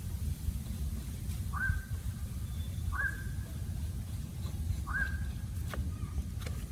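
A bird calling three times, each a short call that rises quickly and holds one high note, about every one and a half to two seconds, over a steady low rumble.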